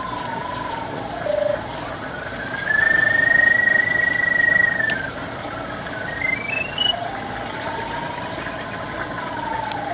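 Pipe locator's tone sliding up and down in pitch as it homes in on a sewer camera's sonde: it climbs to its highest in the middle, drops, steps quickly upward near the two-thirds mark, then swells more gently. Under it runs a steady mechanical hum.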